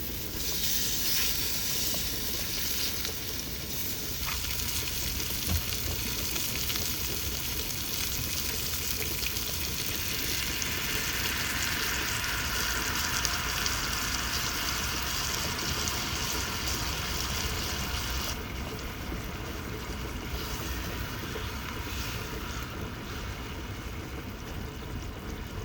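Food sizzling as it fries: a steady, dense hiss that swells around the middle and turns duller about three-quarters of the way through as its higher hiss drops away.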